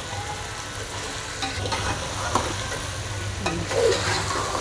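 Chicken and potato pieces sizzling in oil in a metal pot while being stirred with a metal spoon, with a few scrapes of the spoon against the pot. The ground coriander-fennel masala is starting to fry.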